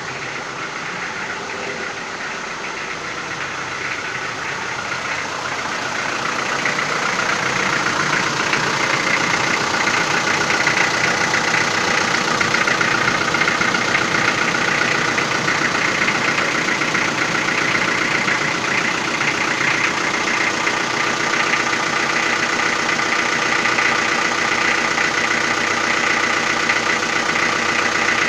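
Toyota 4B four-cylinder diesel engine idling with a knock that sounds like over-advanced injection timing. The knock persists after the injection pump's plunger pair and the injector nozzles were replaced, and no adjustment of pump timing has cured it. The engine grows louder over the first ten seconds or so, then runs steadily.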